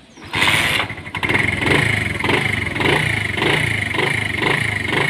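A small Honda motorcycle engine starts suddenly about a third of a second in and runs on steadily with a regular pulsing, a little under two beats a second.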